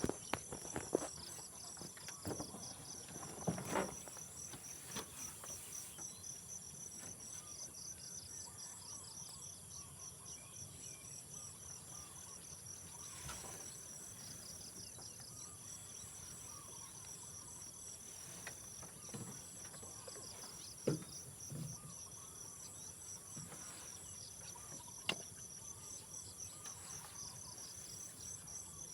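Insects chirping in a fast, even pulsing rhythm over a continuous high-pitched insect hiss. A few sharp knocks and clicks come in the first few seconds, with two more later on.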